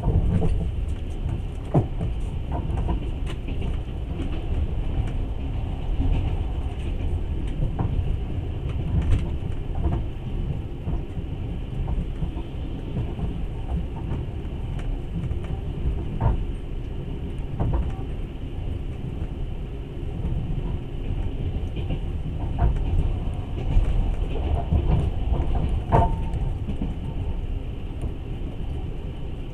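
Passenger train running, heard from inside the carriage: a steady low rumble of wheels on rails, with a few sharp clicks and knocks now and then.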